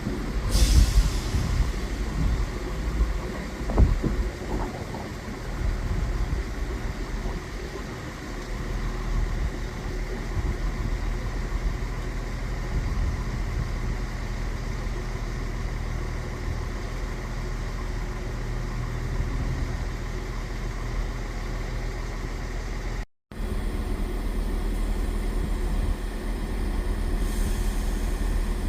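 A train's engine running steadily: a low hum with a steady tone. A short sharp hiss comes about half a second in, a few knocks follow around four seconds, and the sound drops out briefly near the end.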